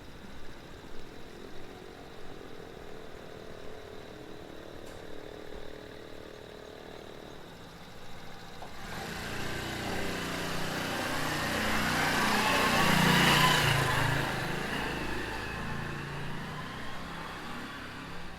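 A motor vehicle approaches and passes, its engine and tyre noise swelling about halfway through, loudest around two-thirds of the way, then fading away.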